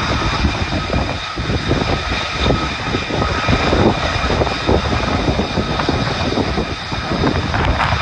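Lockheed Martin F-35A's Pratt & Whitney F135 jet engine in afterburner: a loud, steady rumble with a ragged crackle all through.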